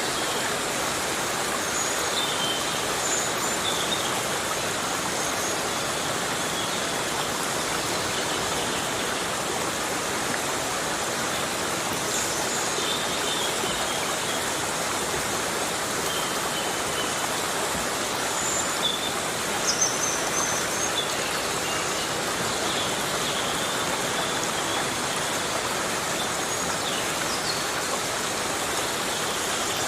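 Heavy rain falling steadily in a rainforest, a dense even hiss of rain on leaves. A few faint high chirps sound through it, and a short cluster of louder drops comes about two-thirds of the way in.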